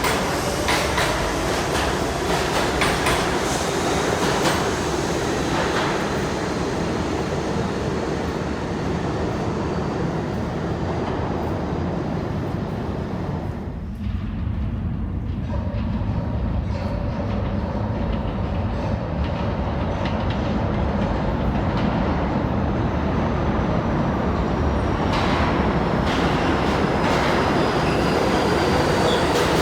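New York City subway train running through the station: steady rumble and clatter of wheels on the rails, with a faint pitched whine over it. The sound eases briefly about halfway through, then builds again.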